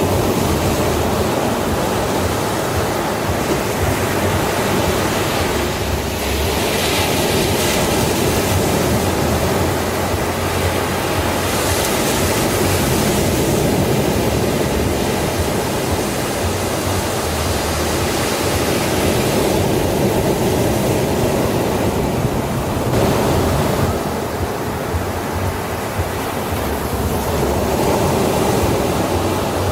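Sea waves breaking and washing on a beach, a steady dense roar of surf with slow swells and hissing wash, with some wind rumble on the microphone.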